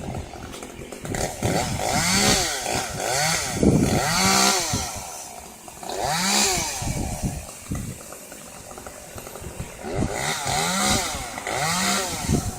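Chainsaw engine revving up and dropping back again and again, its pitch swelling and falling every second or so, with a quieter low-revving stretch in the middle.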